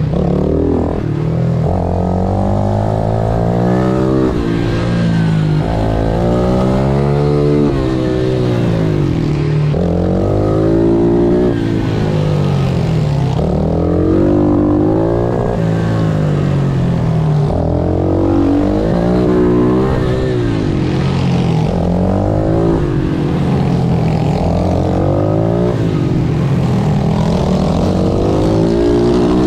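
Pit bike engine revving hard and repeatedly, its pitch climbing then dropping back every couple of seconds as the rider accelerates through gears and shuts off for corners.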